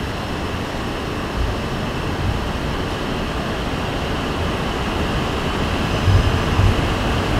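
E5 series Shinkansen pulling out of a station, its cars rolling past and picking up speed: a steady rushing rumble that slowly grows louder, with a few low thumps toward the end.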